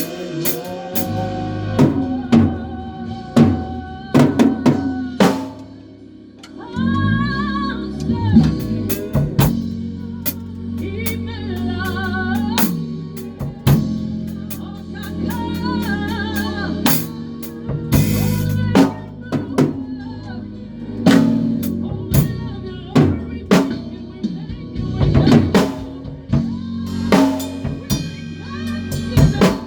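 A band playing live at rehearsal: drum kit with snare and kick drum beating steadily over a bass line, with a melodic line above. The band drops back briefly about six seconds in.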